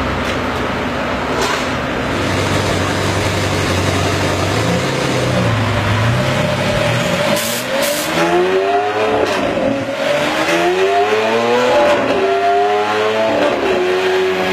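Lamborghini Aventador's V12 engine running on a chassis dyno. It runs steadily at first, then about seven seconds in it revs up in several rising sweeps, each cut by a sudden drop in pitch as it shifts up through the gears.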